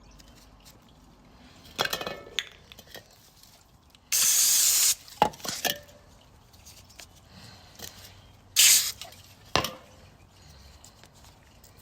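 Two bursts of spray hiss, the first just under a second long about four seconds in and a shorter one later, among scattered clinks and knocks.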